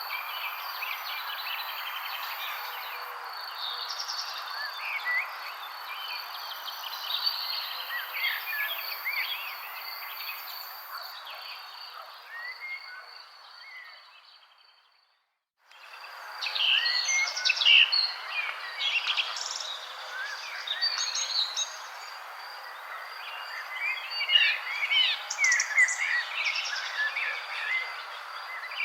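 Many songbirds chirping and singing in a dense chorus, with short quick whistles over a steady hiss and a constant high insect drone. The chorus fades out about halfway through, drops to silence for a moment, then comes straight back in.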